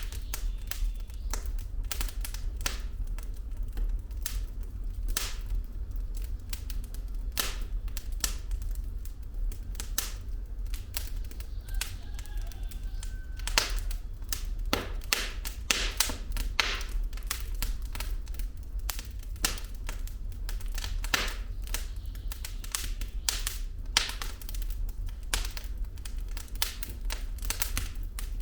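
Wood fire burning in a fireplace: logs crackling and popping in irregular sharp snaps over a steady low rumble.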